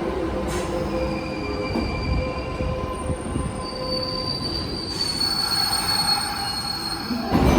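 Kintetsu electric train running slowly along the platform, its wheels squealing in several high, steady tones over the rumble of the cars. Near the end the sound jumps to a louder, rougher rumble.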